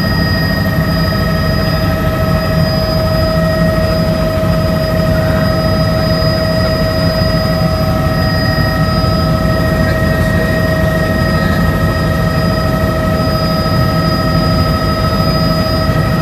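Helicopter running steadily in flight: a loud, constant low rumble with several steady high-pitched whining tones over it.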